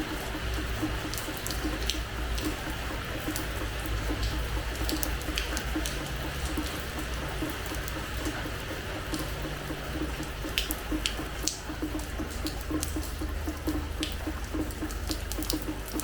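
Rain falling on a hard terrace floor: a steady hiss of rain with many sharp individual drops splashing close by.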